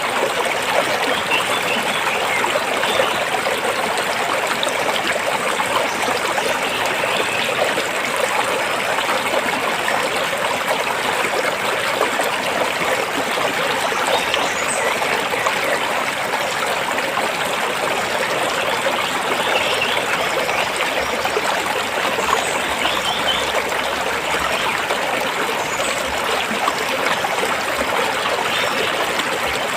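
A rocky stream running steadily, water flowing over and between stones.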